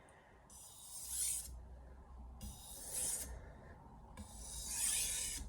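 Stainless steel Santoku blade drawn across a wet 1000-grit soaking whetstone, three hissing, rasping strokes about a second long each with short pauses between, while grinding the edge to raise and work off a burr.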